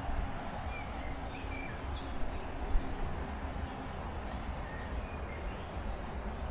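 Heavy rain falling steadily, with a low wind rumble on the microphone and a few short bird chirps.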